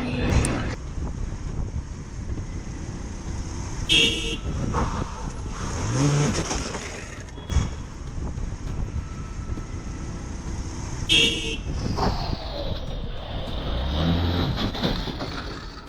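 A vehicle horn sounding two short toots, about 4 seconds and 11 seconds in, over steady traffic and road noise.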